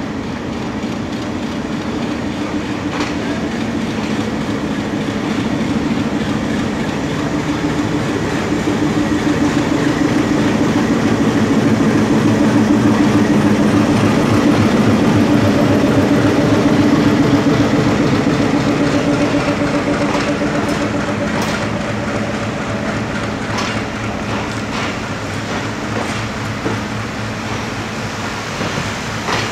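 Diesel locomotive pulling a passenger train out of a station, its engine drone growing louder as it passes close and then fading. After it, the coaches roll by with scattered clacks of wheels over rail joints.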